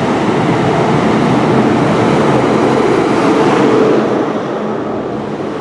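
A Class 43 HST power car pulling an InterCity 125 out of the station, with its diesel engine working hard over the rumble of the train on the rails. It grows louder to a peak about three to four seconds in, then eases off.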